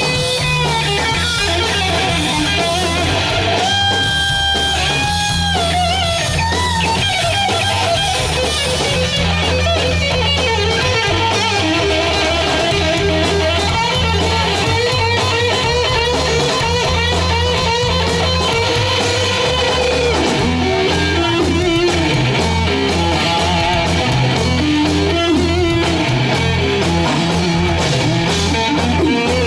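Rock band playing: an electric guitar lead with held notes and wavering vibrato over a steady bass line.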